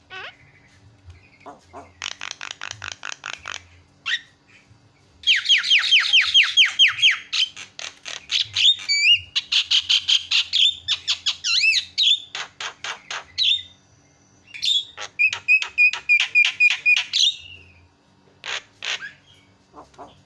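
Javan myna (jalak kebo) calling in several bursts of rapidly repeated notes, a few times a second, with short pauses between the bursts.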